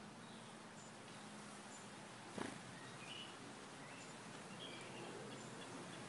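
Faint short bird chirps over a steady outdoor hiss, with one soft thump about two and a half seconds in.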